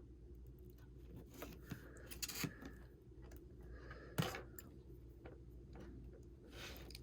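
Faint small clicks and scrapes of hands and small tools working on an opened iPhone 6 during battery removal, with a sharper click about four seconds in, over a steady low hum.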